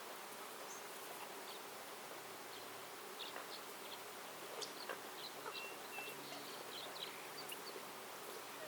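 Quiet forest ambience under a steady hiss: an insect buzzes, and small birds give scattered short chirps and brief high whistles, busiest in the middle.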